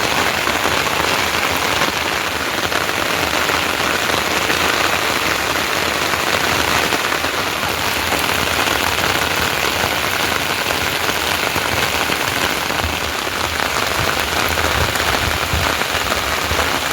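Steady heavy monsoon rain falling and pattering on surfaces, an even hiss without let-up.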